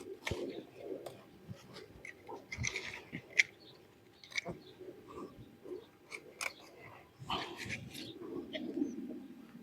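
Tomato plant stems and leaves rustling, with crisp irregular snaps as side shoots are pinched off by hand. A low cooing bird call comes near the end.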